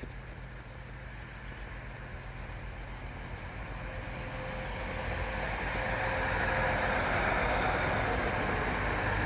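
TransPennine Express passenger train approaching, its running noise growing steadily louder over about six seconds and then holding. A faint steady whine comes in about four seconds in.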